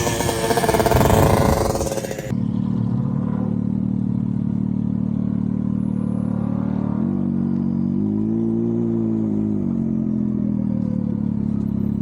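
Can-Am Maverick X3 side-by-side engine under load, with heavy wind and road noise. It cuts suddenly to a steady idle, then revs up briefly about eight seconds in and settles back to idle.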